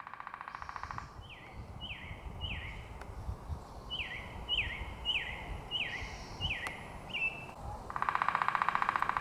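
Birds singing: a series of short down-slurred whistled notes repeated about twice a second, with a rapid buzzy trill at the start and again near the end, over a low background rumble.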